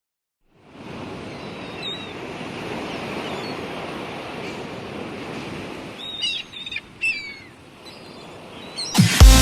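Sea waves washing onto the shore in a steady hiss, with a bird chirping briefly about two seconds in and again several times around six to seven seconds. Loud electronic dance music with a heavy beat cuts in near the end.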